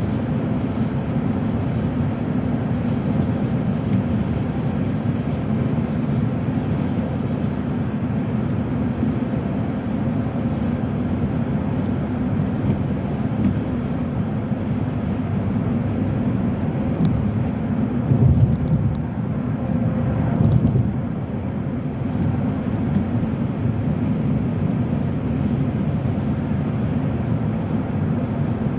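Steady low road and engine rumble of a moving car, heard from inside the cabin, with two brief louder rumbles about two-thirds of the way in.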